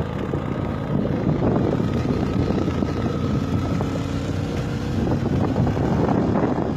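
Motorbike engine running at a steady pace while riding, with wind noise on the microphone.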